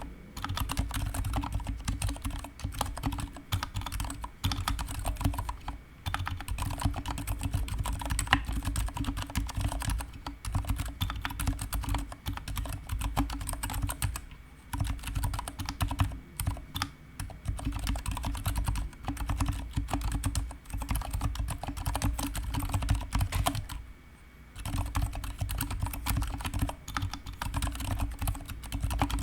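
Continuous typing on a GK61 mechanical keyboard with stock, unlubricated Gateron silent brown switches and PBT pudding keycaps: dampened, quick keystrokes and spacebar thocks with a few short pauses.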